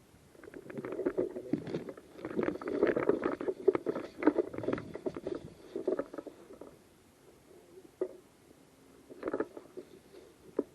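Close-up rustling and knocking of clothing and kit rubbing against a body-worn camera as the player moves, a dense crackle for the first several seconds. It thins out to a few separate sharp clicks near the end.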